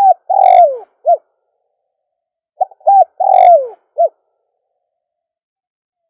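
A caged decoy spotted dove cooing. The end of one phrase is heard at the start, then one full phrase about two and a half seconds in: short notes, a long note sliding down, and a short closing note.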